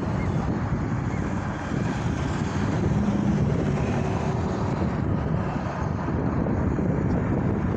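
Steady low rumbling noise, even throughout, with no speech.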